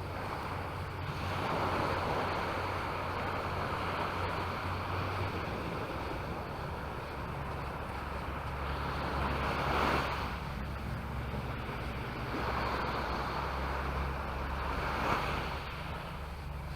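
Sea waves breaking and washing up the shore, swelling and fading every few seconds, over a steady low hum.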